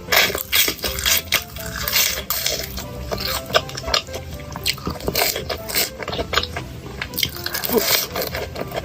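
Close-miked eating sounds: a fast, irregular run of short wet clicks, smacks and crunches of chewing, over light background music.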